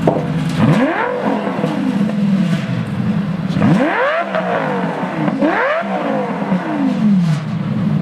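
Lamborghini V10 revved three times from idle through oversized exhaust tips, each rev climbing quickly and falling back, the last one dropping slowly to idle. Loud.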